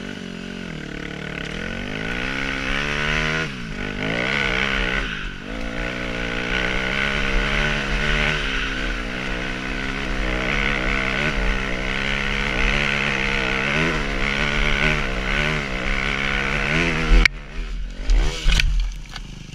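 Yamaha WR250 dirt bike's single-cylinder four-stroke engine revving up and down under load. About seventeen seconds in, a sudden loud clatter and a few sharp knocks as the engine note drops away: the bike going down in a crash.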